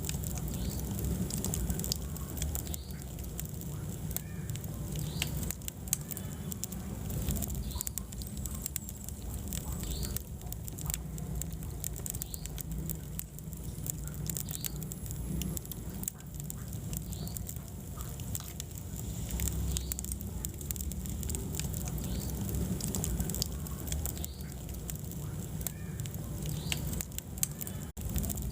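Wood fire burning in a fireplace: frequent sharp crackles and pops over a low, steady rumble, with short high squeaks now and then.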